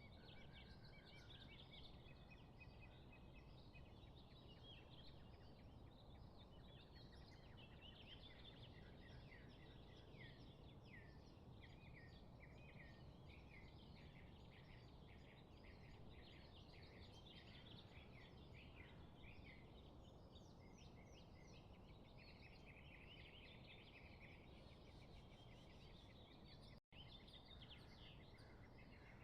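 Faint chorus of small birds chirping and trilling, many short overlapping calls, over a steady low background rumble. Near the end the sound cuts out for an instant.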